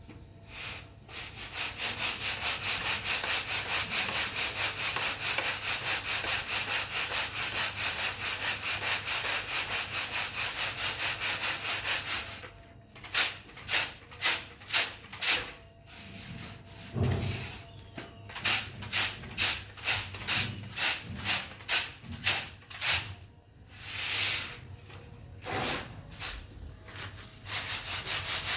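Rapid, continuous rubbing or scraping strokes for about ten seconds, then a run of separate strokes, about two a second, with short pauses between them.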